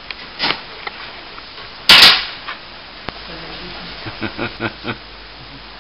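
A single loud, sharp bang about two seconds in, like a hard knock, followed by faint voices.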